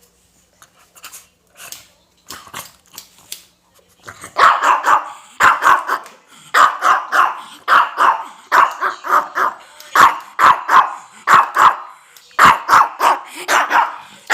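A dog barking at a visitor in quick volleys of two to four loud barks, starting about four seconds in after a few faint sounds.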